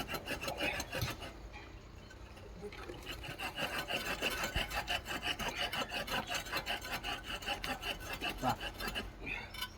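Fast, even hand-scraping strokes on a steel rail at a fresh weld, about five a second, getting going about three seconds in: the weld being filed or scrubbed smooth and clean.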